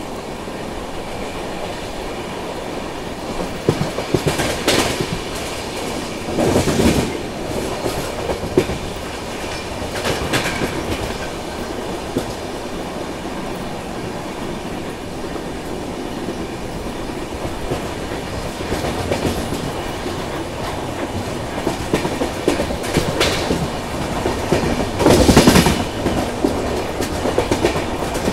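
Indian Railways express coach running at speed, its wheels rumbling and clattering over the rails, heard from the open coach doorway. The clatter grows louder for a moment several times, most strongly about a second into the last few seconds.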